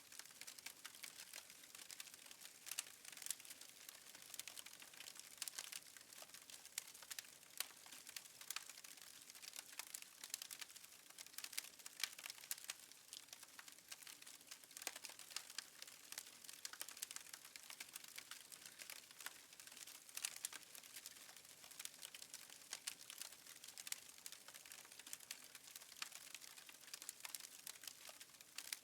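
Fireplace fire crackling faintly, with many small, irregular pops and snaps.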